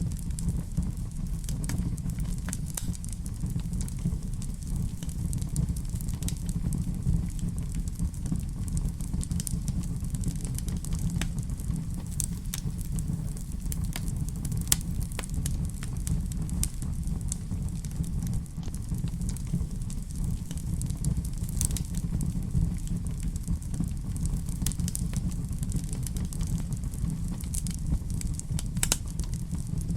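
Wood fire in a fireplace crackling, with a steady low rumble of flames under irregular sharp pops and snaps.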